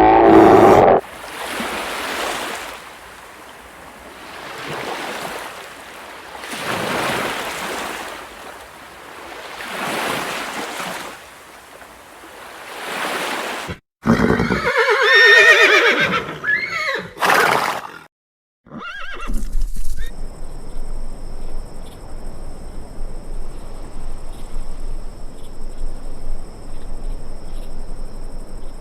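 Horse neighing: a loud, shaky whinny about halfway through, after a stretch of slow swelling noise. Near the end there is a steady hiss with crackle.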